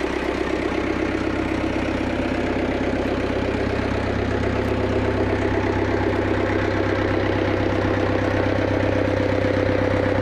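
Cat backhoe loader's diesel engine idling steadily.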